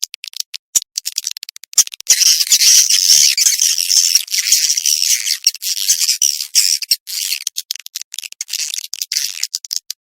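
Swiftlet calls played as a lure sound for swiftlet nest houses: rapid high-pitched clicking chirps that thicken into dense, continuous twittering about two seconds in, then break back into separate clicks near the end.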